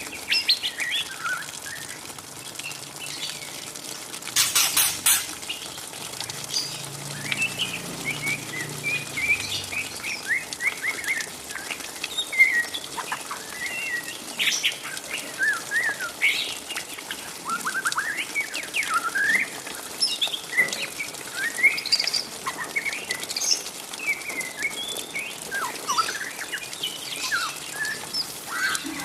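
Juvenile white-rumped shama (murai batu trotol) chattering its 'ngriwik' call: a dense run of short, squeaky chirps and quick up-and-down twitters, the babbling early song of a young bird of about three to four months. A brief rattling burst sounds a little over four seconds in.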